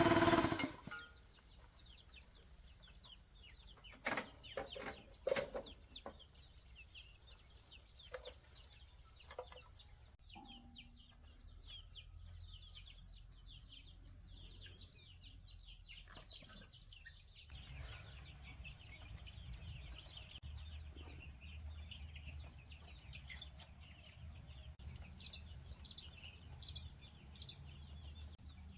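A small Honda GX200 single-cylinder engine cuts off under a second in. Then outdoor ambience follows: scattered bird chirps over a steady high-pitched drone, with a few sharp clicks about four to five seconds in.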